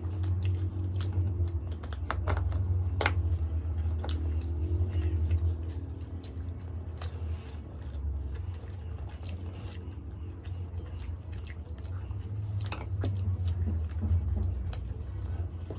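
Close-miked chewing and biting of soft paratha flatbread, with fingers tearing the bread and a few sharp clicks and crackles, the clearest about two to three seconds in and again near the end.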